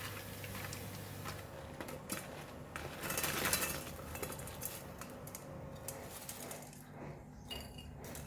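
Light clinks and scrapes of a metal kitchen utensil against a pan and plate as freshly deep-fried chicken pieces are lifted out of the oil and set down, over a soft hiss that swells for a couple of seconds early in the clip.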